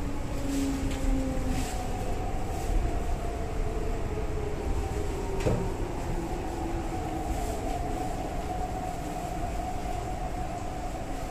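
MTR East Rail Line R-train electric multiple unit running at speed: a steady rumble of wheels on rail, under a faint whine that holds a nearly even pitch. There is a single sharp click about halfway through.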